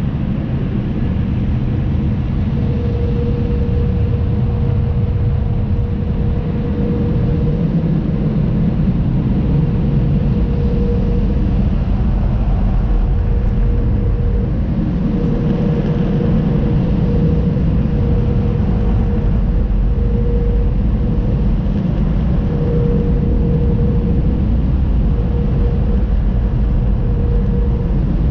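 Automatic car wash tunnel machinery running: a steady low rumble with a hum that fades in and out.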